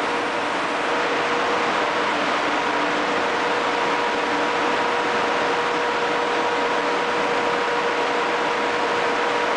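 Ship's engine-room machinery running: a loud, steady mechanical din with a constant humming tone through it.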